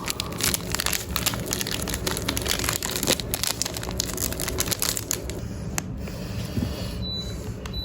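A packet crinkling as it is handled and opened, in a dense run of quick crackles that thins out after about five seconds.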